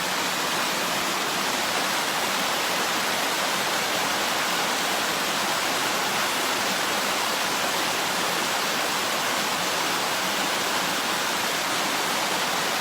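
Small woodland waterfall on a creek running high after heavy rain: water pouring and splashing in a steady, even rush.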